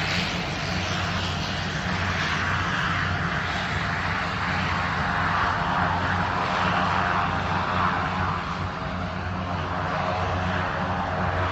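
Two aircraft taking off together, engines running under power with a broad rushing noise that slowly swells and eases, over a steady low hum.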